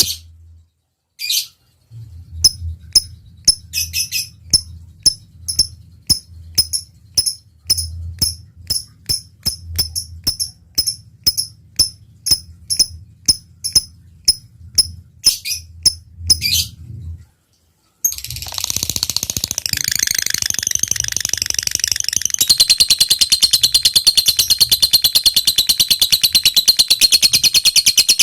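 Lovebird singing: a run of sharp single chirps, about two a second (the 'ngetik' ticking call), then after a short break a long, fast, continuous rattling trill (the 'ngekek panjang' chatter) that grows louder near the end.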